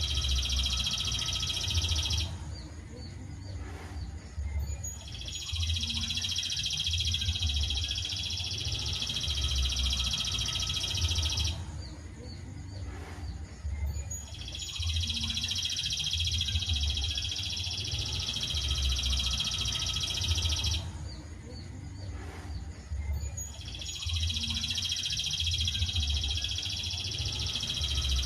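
Songbird masteran recording: a dense, high, rapid trilling song in phrases about six to seven seconds long, each broken by a pause of two or three seconds and repeating evenly, as a looped training track does.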